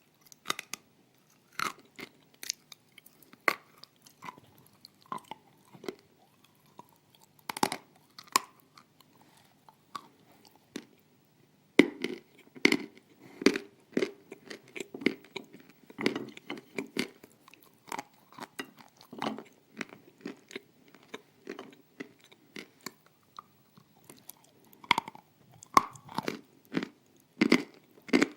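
Close-up crunching and chewing of hard pieces of edible clay. Single crisp bites come every second or so at first, then about twelve seconds in the chewing turns into a steady, dense crunch.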